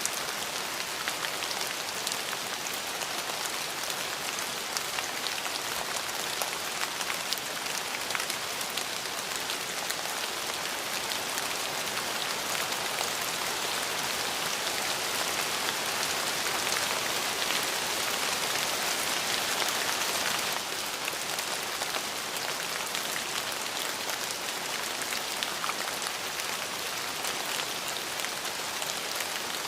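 Steady rain falling, a dense hiss flecked with the ticks of separate drops. It grows a little heavier and then drops back suddenly about twenty seconds in.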